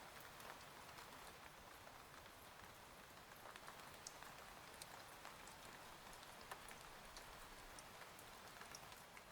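Quiet, steady rain with many scattered individual drops ticking through it.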